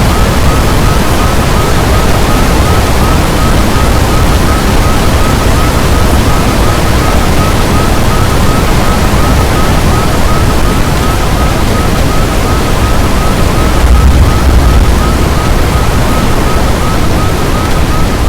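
Strong wind buffeting the microphone: a loud, steady rush, heaviest in the lows, with a gust about fourteen seconds in. A faint high chirp repeats two or three times a second underneath.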